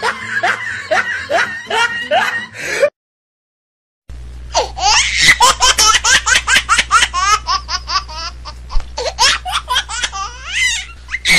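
Two laughter sound effects: a laugh in short repeated bursts that breaks off about three seconds in, then after about a second of silence a second, high-pitched laugh of quick, evenly repeated 'ha's that runs on to the end.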